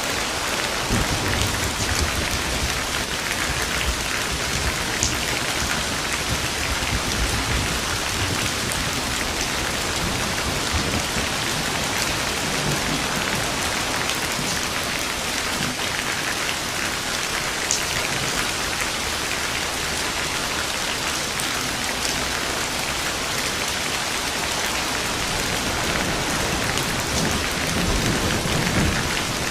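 Steady heavy rain, with low rumbles of thunder swelling a second or so in and again near the end.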